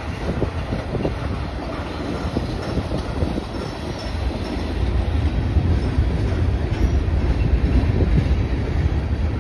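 Freight cars rolling past at steady speed: steel wheels clicking and clacking on the rails over a continuous low rumble.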